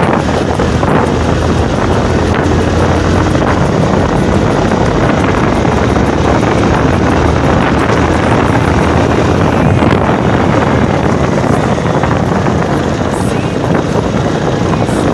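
Wind buffeting a phone's microphone on a moving motorcycle, with the motorcycle's engine running steadily underneath.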